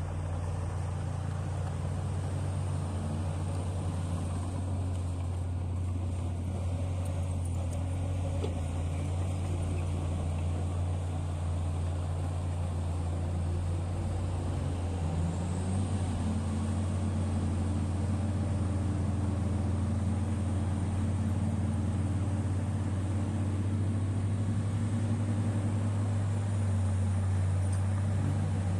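Diesel engine of heavy mining earthmoving equipment running steadily with a deep low hum; about halfway through its pitch rises as the engine revs up and holds at higher revs.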